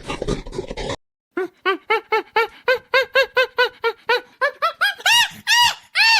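An animal giving a rapid series of short, high-pitched cries, about three or four a second, each rising and falling in pitch; they grow longer and higher near the end. This follows a second of noisy sound that cuts off abruptly.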